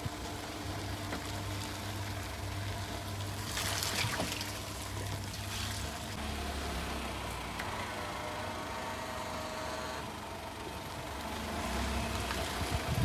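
Daihatsu Mira e:S's small three-cylinder engine running at low revs as the front-wheel-drive car crawls off-road. The engine note drops about six seconds in and rises again near the end, and there is a brief burst of scraping noise about four seconds in.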